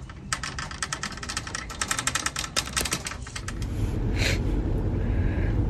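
Rapid, irregular clicking and rattling for about the first three seconds. A steady low rumble then takes over for the rest.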